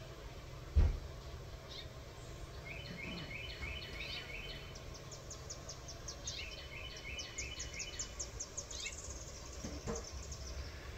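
Small birds calling and singing, with series of quick repeated chirps, over a low steady background hum. About a second in there is a single low thump, the loudest sound.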